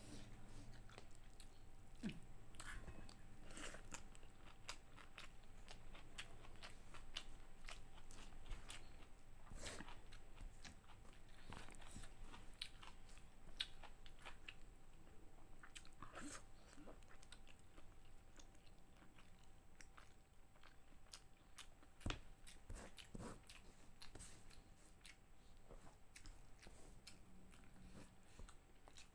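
Close-miked eating: quiet chewing and crunching of food with sharp, irregular mouth clicks and smacks, a couple of them louder.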